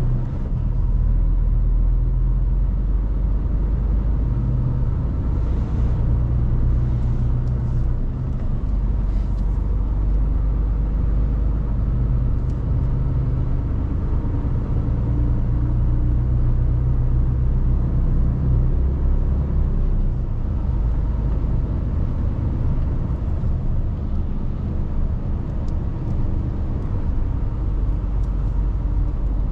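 Mercedes-Benz Actros truck's diesel engine running with a steady low drone as the truck drives, heard from inside the cab together with road noise.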